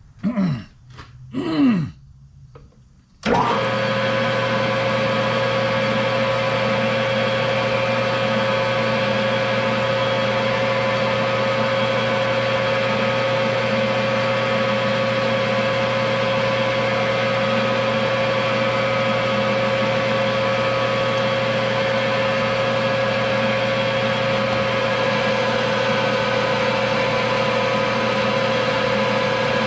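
Metal lathe motor starting up about three seconds in and running steadily with a constant whine and hum, turning a part down to size.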